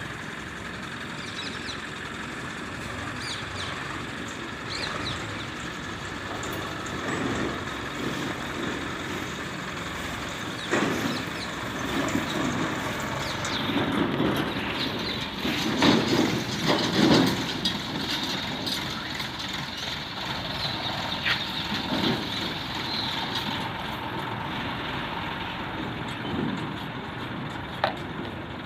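Heavy diesel machinery running steadily, with a run of louder knocks and thuds about halfway through.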